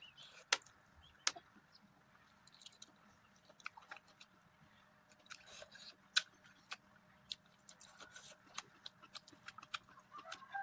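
Close-miked mouth sounds of a person eating a meal of mutton curry with rice and dal: chewing, with irregular wet clicks and smacks.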